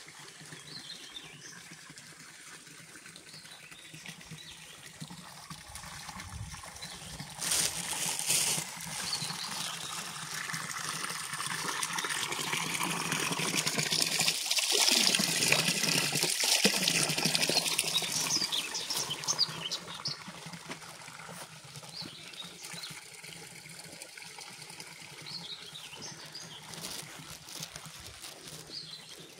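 Running water trickling, swelling to its loudest about halfway through and fading again, with faint bird chirps.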